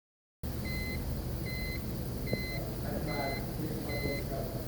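Electronic beeping, one high beep about every 0.8 seconds, repeated steadily over a low hum.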